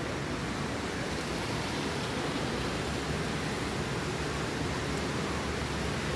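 Heavy rain pouring steadily, an even rushing noise with no break.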